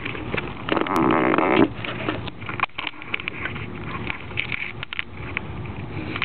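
Small dog snuffling and rustling among snow pea vines, a quick run of crackles and clicks, with a steady pitched sound lasting about a second starting near the first second.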